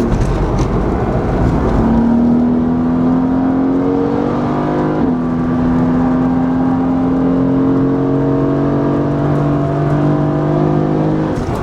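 Mercedes-AMG GT S twin-turbo V8 with an open Akrapovic titanium exhaust, pulling under load on track, its pitch climbing slowly with a brief hitch about five seconds in.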